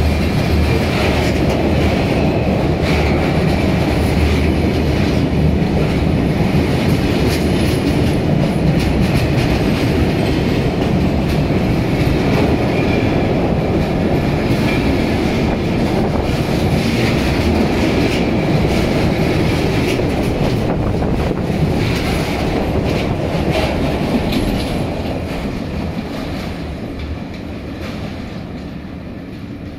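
Freight train of butane tank wagons rolling past close by, its wheels clacking over rail joints, with a high squeal coming and going. The sound fades steadily over the last few seconds as the end of the train draws away.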